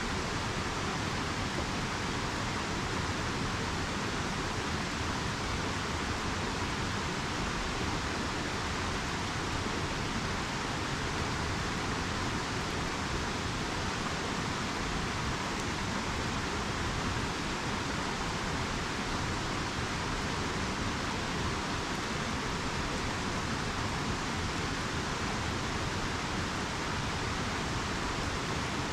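A river rushing steadily, an even, unbroken wash of water noise.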